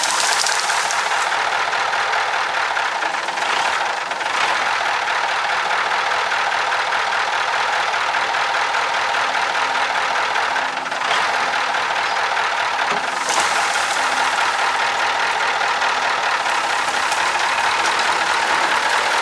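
Cummins 903 V8 diesel in a Ford LNT 9000 truck running steadily.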